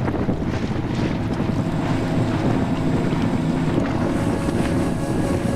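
Small boat's outboard motor running at a steady speed, with wind buffeting the microphone.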